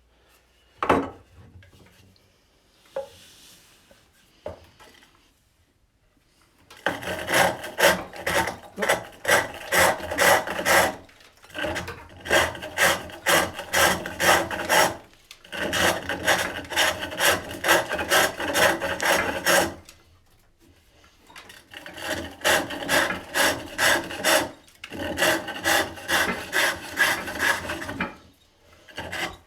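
Hook tool cutting a wooden bowl turning on a pole lathe: a rasping scrape about twice a second, in runs of a few seconds with short pauses between. The first several seconds are quiet apart from a single knock about a second in, as the tool is changed.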